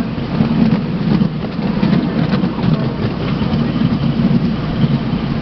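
Miniature railway train running along the track, heard from a passenger car: a steady rumble of wheels on rails with scattered faint clicks.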